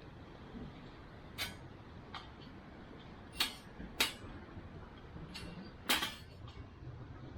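Wood fire crackling: a handful of sharp, irregular pops from the burning wood, the loudest about three, four and six seconds in, over a faint steady hiss.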